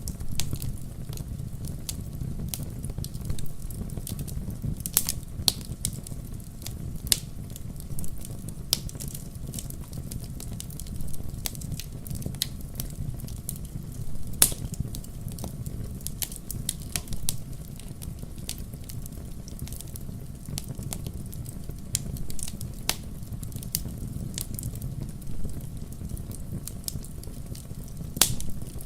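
Wood fire burning in a fireplace: a steady low rumble of flames with frequent sharp crackles and pops from the logs, a few of them louder, about 5 s in, about 14 s in, and near the end.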